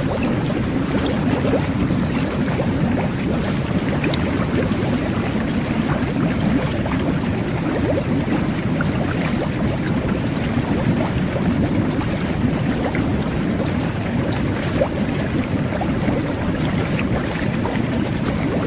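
Jet bath (jacuzzi) jets churning the bath water: a steady bubbling and gurgling, with many small bubble pops through it.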